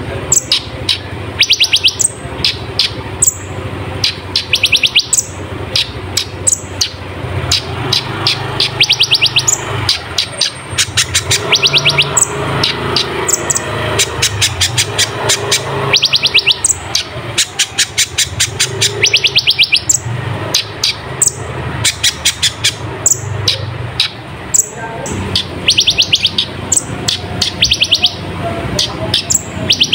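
Kolibri ninja sunbird singing: short, rapid, high trills of clicking notes, repeated every second or so, over a steady low hum.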